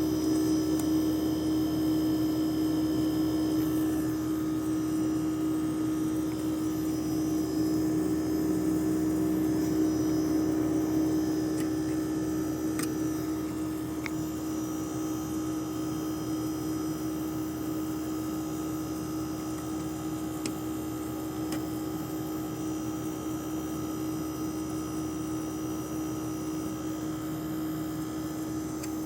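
HQ split air conditioner's outdoor condenser unit running with a steady, strong hum of one constant pitch, easing slightly about eleven seconds in. It is the excessive noise ("muito barulho") the owner is complaining of.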